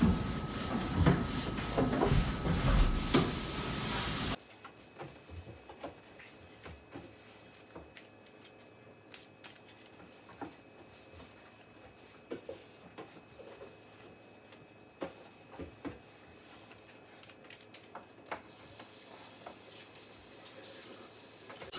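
Water running from a kitchen tap with a splashing hiss, cut off suddenly about four seconds in. Then quiet scattered clicks and knocks of handling, and a steady hiss of running water returns near the end.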